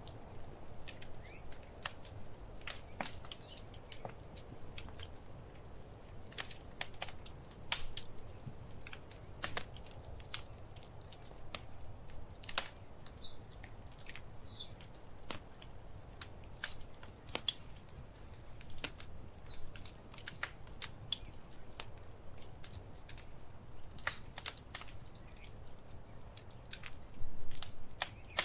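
Wood fire crackling: irregular sharp pops and snaps over a low steady rumble of flames, with a louder cluster of pops near the end.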